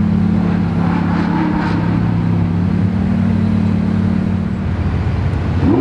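Supercar engine idling with a steady, deep note, then starting to rev up sharply right at the end.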